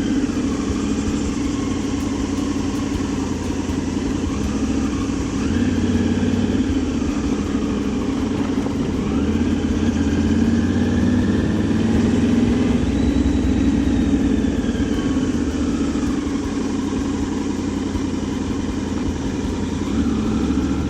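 Triumph Tiger 900 GT Pro's three-cylinder engine running under way, its pitch rising and falling several times as the rider accelerates and eases off.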